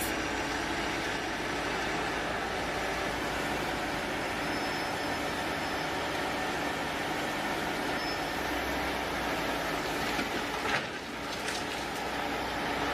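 Steady running noise of heavy vehicle engines, an even rumble and hiss with no clear rhythm, broken briefly by a click about eleven seconds in.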